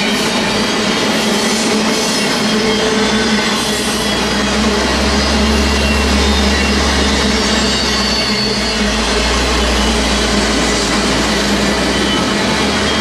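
Freight train rolling past: a steady clatter of wheels on rail under the railcars, with a deep rumble that swells about four seconds in and eases near the end.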